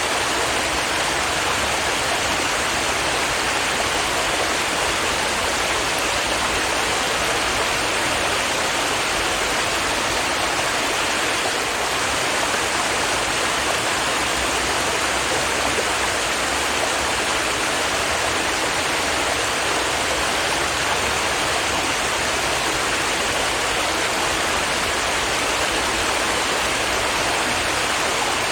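A stream of water flowing and babbling over rocks, a steady rushing with no pauses.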